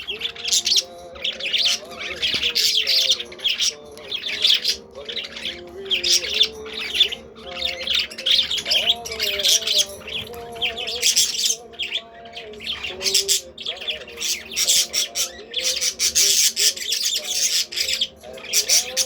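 Budgies chattering and squawking in a steady stream of short, scratchy warbles.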